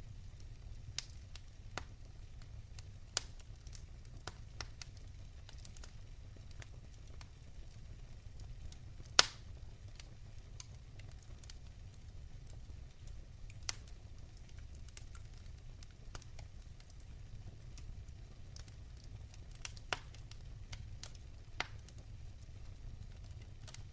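Wood fire crackling in a fireplace: scattered sharp pops and snaps over a low steady rumble, with one much louder pop about nine seconds in.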